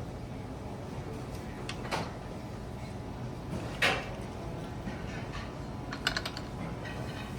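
Dining-room hum with a few light knocks and clinks of tableware. The loudest comes about four seconds in, followed by a quick run of small clicks about two seconds later.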